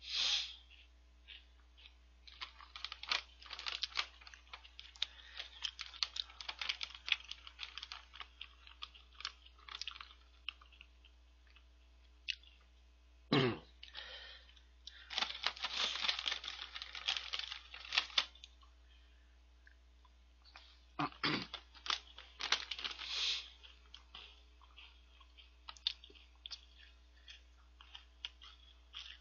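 Crunchy chocolate star cereal snack (7-Eleven Choco Star) being chewed close to the microphone, a dense crackling in several bursts, with the snack bag rustling as it is handled about midway.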